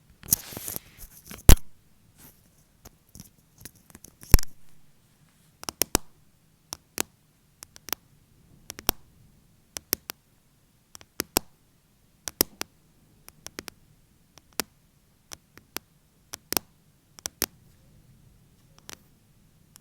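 Fake nails tapping, sharp irregular clicks at a slow uneven pace, with a brief scratching flurry at the start and two louder taps in the first few seconds.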